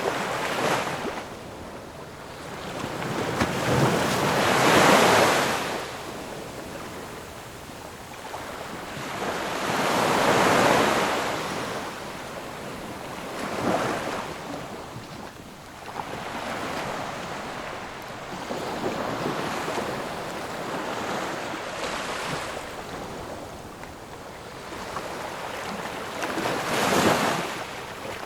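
Ocean waves breaking and washing ashore, swelling and easing every five or six seconds, with the biggest breakers about five seconds in, about ten seconds in and near the end. Some wind buffets the microphone.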